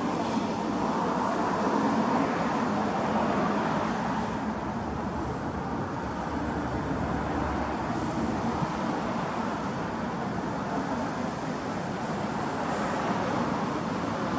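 Suzuki Kei Works' K6A 660 cc turbocharged three-cylinder engine running steadily through an aftermarket muffler, with a slight drop in level about four seconds in.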